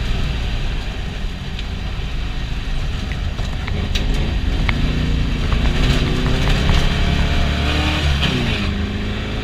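Air-cooled 1641 cc VW Beetle flat-four engine heard from inside the cabin, pulling under load while driving offroad. Its pitch climbs for a few seconds, drops sharply about eight seconds in, then holds steady, with scattered clicks and knocks from the rattling body.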